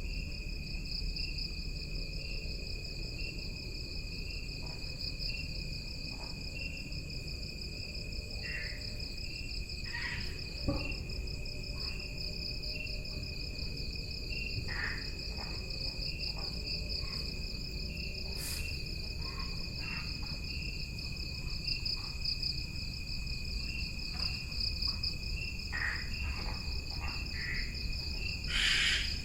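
Jungle insect chorus: one insect trills continuously at a high pitch while another chirps in even pulses a little more than once a second. Short calls break in now and then, and a brief loud rush comes near the end.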